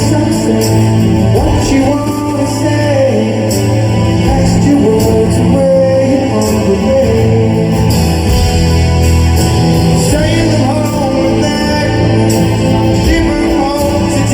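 Live rock band playing, with a male lead singer over guitars and bass in a large concert hall.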